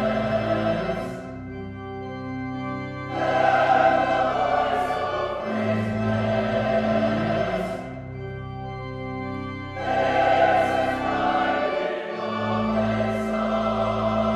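Church choir singing an anthem over sustained organ chords, the voices swelling loud twice and easing back between.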